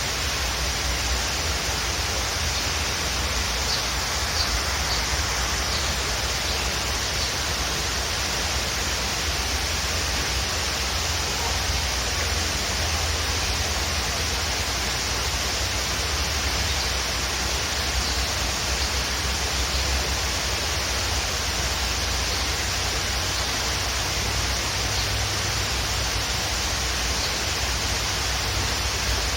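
Waterfall: a steady, unbroken rush of falling water, with a few faint high bird chirps about four seconds in and again near the end.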